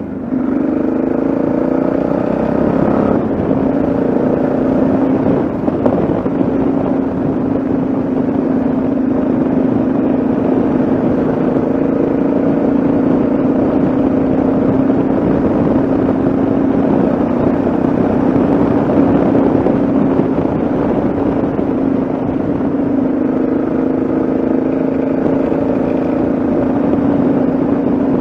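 Yamaha XT660Z Ténéré single-cylinder engine under way on the road, its pitch rising over the first few seconds as the bike accelerates, then holding steady at cruising speed, with steady wind and road noise.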